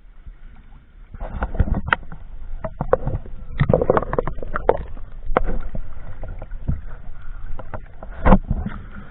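Irregular splashing and slapping of water around a small boat on choppy water, mixed with sharp knocks, starting about a second in. One loud knock comes near the end.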